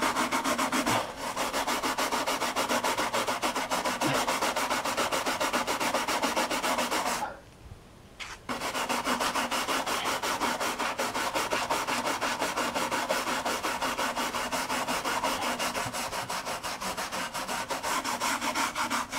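Quick, even back-and-forth scrubbing on the computer's case, breaking off for about a second partway through.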